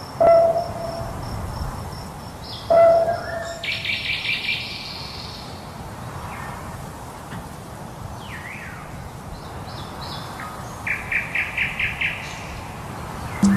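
Several birds calling and singing over a steady background hiss, with short clear whistles and chirps and a fast trill of about six notes near the end.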